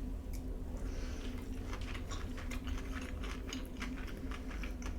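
A person chewing food quietly, with faint irregular wet mouth clicks over a low room hum.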